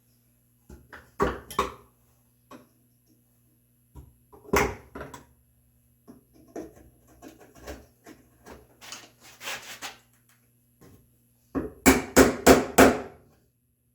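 Hand chisel and mallet working a mortise in red oak: sharp wooden knocks, a couple early, one in the middle and four quick strikes near the end, with scraping of the chisel clearing waste from the bottom of the mortise in between.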